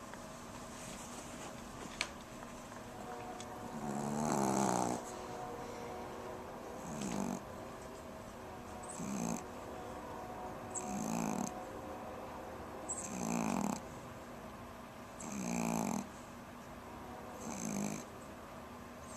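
Pomeranian dog snoring in its sleep, one snore about every two seconds; the first, about four seconds in, is the longest and loudest.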